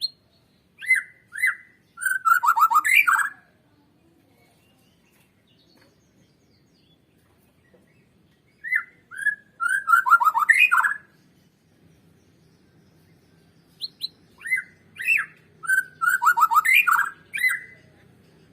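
White-rumped shama (Borneo murai batu) singing in three bouts, each opening with a few clear whistles and running into a fast, rich series of notes, with quiet pauses between them.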